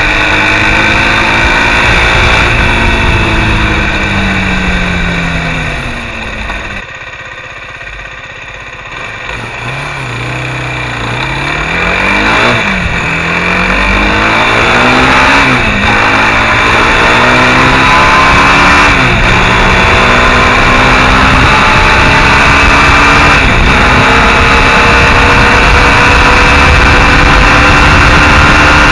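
Mondial SMX enduro motorcycle engine, first winding down as the bike slows, then, after a brief quieter stretch, pulling hard through the gears: the pitch climbs and drops sharply at each of four upshifts before settling into a steady high note at cruising speed.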